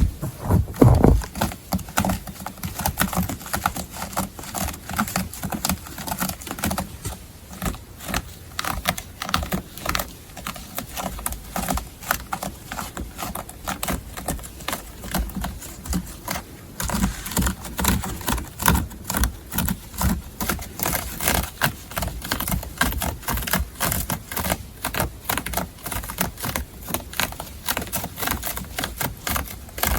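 Close-miked scratching on a textile surface, a quick, uneven run of short scratching strokes, several a second.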